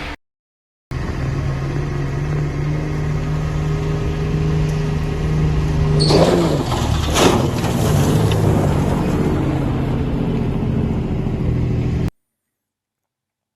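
A truck engine running steadily, swelling loudly between about six and seven and a half seconds in as its pitch dips and then climbs. The sound cuts in about a second in and stops abruptly about twelve seconds in.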